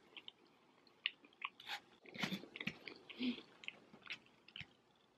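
Close-up chewing of soft takeaway food, sauce-dipped chips, with faint wet mouth smacks and small clicks.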